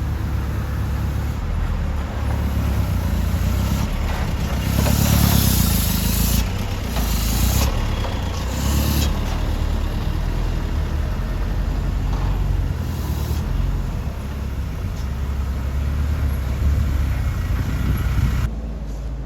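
Heavily loaded Mitsubishi Canter truck's diesel engine running under load with a low, steady rumble, broken by a few short hissing rushes in the first half.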